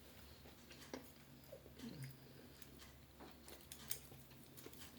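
Faint chewing and small wet mouth clicks from someone eating, scattered irregularly with a few sharper ticks.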